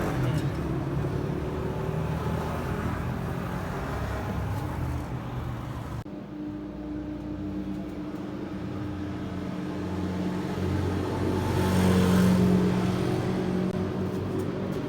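A motor vehicle engine running, with a sudden change about six seconds in to a steadier hum that grows louder for a moment near the twelve-second mark.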